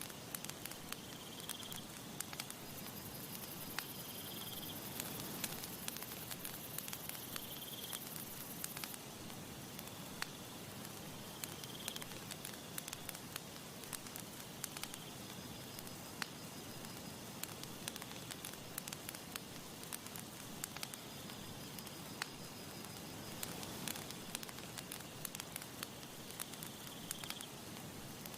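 Campfire burning, with frequent sharp crackles and pops over a steady hiss. A faint high chirp, like an insect, repeats about every two seconds.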